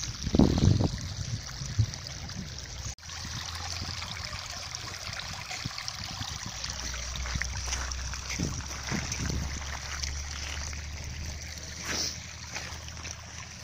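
Rain falling on wet gravel ground, a steady hiss of drops with small splashes. There is a brief low thump about half a second in, and the sound cuts out for a moment about three seconds in.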